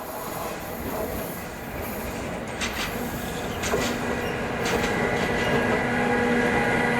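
A train approaching and growing louder, its wheels clacking over rail joints about once a second, with a steady whine from the train building in about halfway through.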